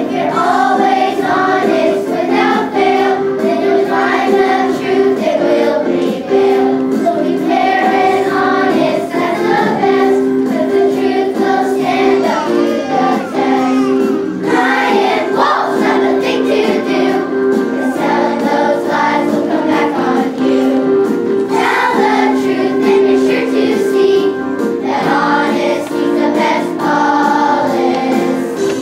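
A choir of young children singing a song together over steady instrumental accompaniment with long held notes.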